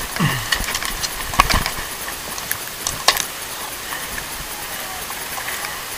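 Steady rushing wind-and-water noise on a sportfishing boat's deck, with a few sharp clicks and knocks of gear, the clearest about one and a half and three seconds in.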